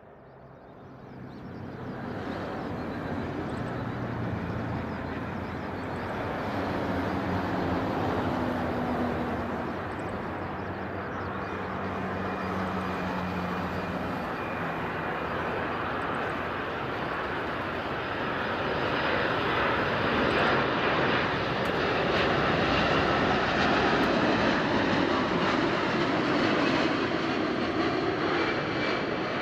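Turbofan engines of a Boeing 787 airliner on approach to land. The steady jet rush swells over the first couple of seconds, carries faint held engine tones, and grows louder again in the last third as the plane comes closer.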